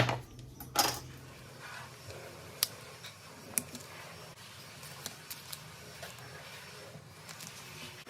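Tools and small metal parts being handled: a sharp knock, a second clack just under a second later, then scattered light clicks and taps.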